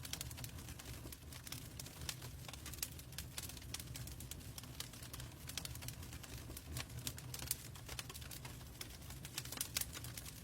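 Logs burning in a fireplace, crackling with dense, irregular pops and snaps over a low, steady rumble.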